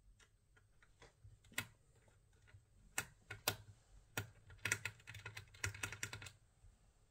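Typing on a laptop keyboard: a few separate key clicks, then a quick run of keystrokes about four and a half seconds in that stops after nearly two seconds.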